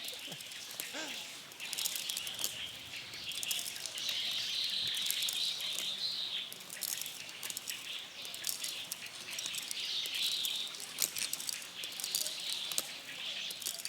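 Wild birds chirping in a high-pitched chorus that swells and fades, with quick chirps scattered through it.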